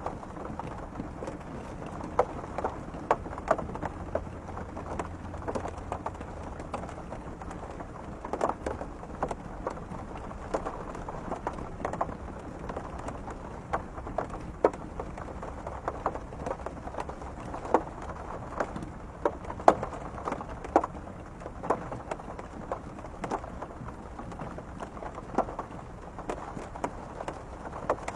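Rain falling steadily, with drops tapping irregularly and sharply on window glass.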